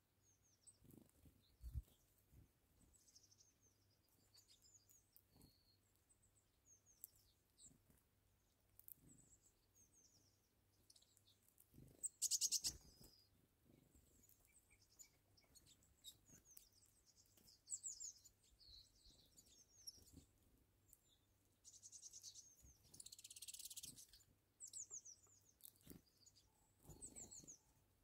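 Faint high chirps and short calls of small birds scattered throughout, with one louder rapid trill-like burst about halfway through and a brief hiss a few seconds before the end.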